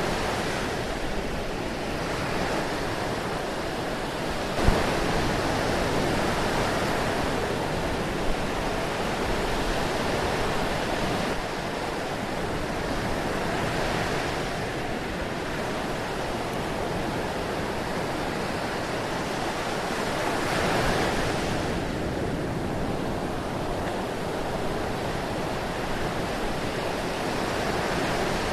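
Ocean surf washing in continuously, swelling and easing every several seconds. A sharp click stands out once, about five seconds in, with a fainter one a few seconds later.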